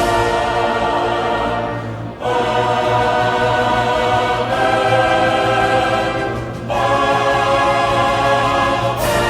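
Choral music: a choir singing held chords that change every couple of seconds.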